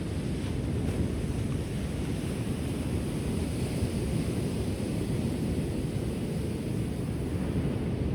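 Ocean surf washing onto the shore: a steady, deep wash of water noise with no single wave break standing out.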